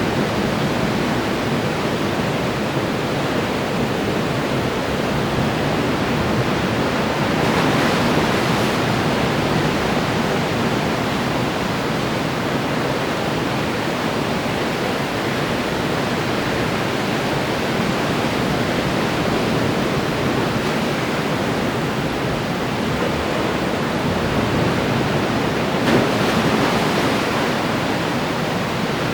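Ocean surf breaking and washing on the shore as a steady rushing sound, with two waves swelling louder, one about eight seconds in and one near the end.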